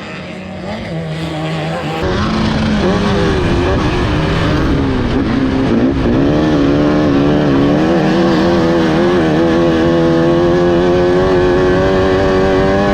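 Off-road race car engine running hard. It gets louder about two seconds in, its pitch rising and falling with the throttle, then holds at high revs.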